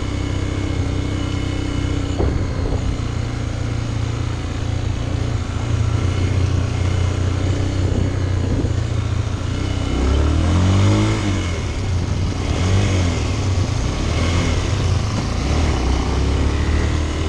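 Motorcycle engines running at low speed, with revs rising and falling about ten seconds in and again a couple of seconds later.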